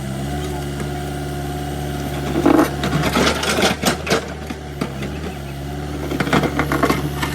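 A diesel engine running steadily at a low, even pitch, with short bursts of clattering noise about two and a half seconds in and again near the end.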